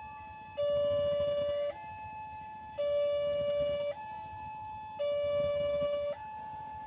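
Railway level-crossing warning alarm of the WANTECK type sounding a two-tone electronic signal. A louder, lower tone alternates with a softer, higher one, each held about a second, three times over. It signals that a train is approaching.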